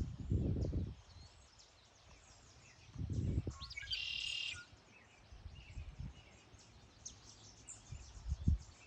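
A songbird singing: scattered high chirps and one loud, buzzy trilled phrase about four seconds in. Low rumbles break in three times, at the start, about three seconds in, and near the end.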